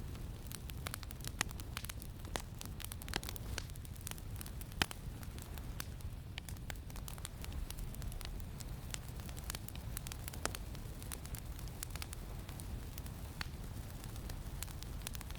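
Campfire crackling, with irregular sharp pops and snaps, over a steady low rumble of wind.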